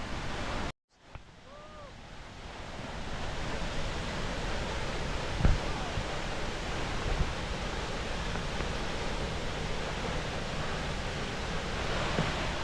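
Steady rush of a waterfall's falling water, building over the first couple of seconds and then holding, with a single low knock about halfway through.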